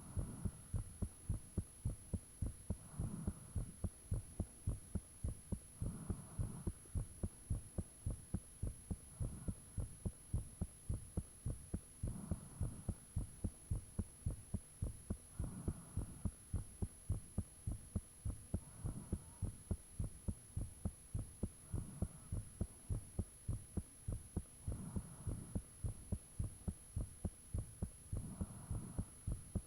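A person's own heartbeat recorded up close: a fast, even run of low thumps that the uploader calls really loud. A softer rushing swell rises every three seconds or so, and a faint steady high whine sits underneath.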